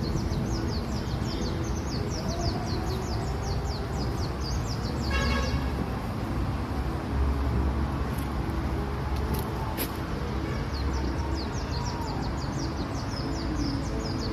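Rapid trains of short, high chirps falling in pitch, typical of bird calls, over a steady low rumble. The chirping stops about four and a half seconds in and starts again near the end. Between the trains come a brief lower call and a few sharp clicks.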